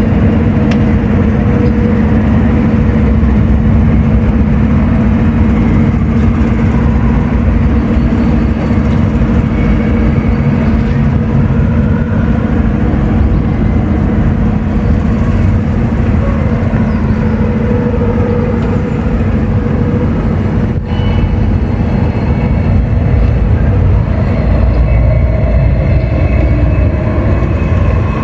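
A train running close by: a loud, steady mechanical din with a constant low hum.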